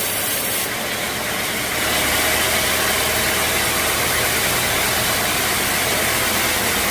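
Sawmill machinery running, a steady mechanical hum under a broad noisy whir that gets a little louder about two seconds in.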